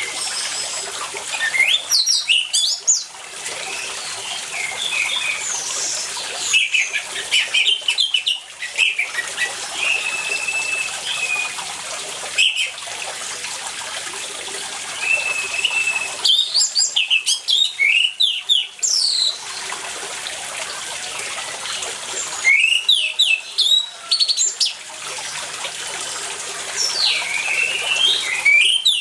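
Orange-headed thrush singing in about five bursts of rapid, varied whistled phrases, with short steady whistles between them, over water running throughout.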